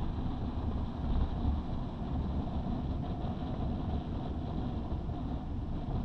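Honda CB650R's inline-four engine, fitted with an IXIL aftermarket exhaust, running steadily with no clear revs or gear changes.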